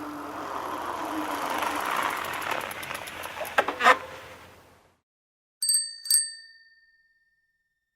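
A rushing noise swells and fades over the first five seconds, with a few sharp clicks near its end. Then a bicycle bell is rung twice, about half a second apart, each ring fading out.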